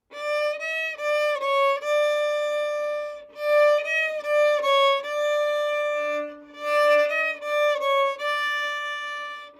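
A violin playing a slow melody of held notes that move in small steps, each note bowed separately rather than slurred.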